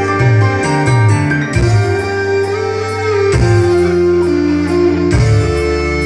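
Music with guitar, held bass notes and a steady cymbal beat, played loud through a sound system of 18-inch and 15-inch bass cabinets, two 8-inch speakers and tweeters during a sound check.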